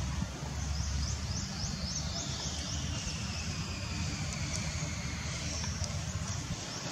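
Outdoor ambience with a steady low rumble, over which a bird gives a quick run of short high chirps, about four a second, in the first half.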